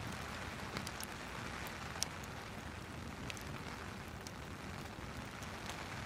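Steady rain with a wood fire crackling over it: irregular sharp pops, the loudest about two seconds in.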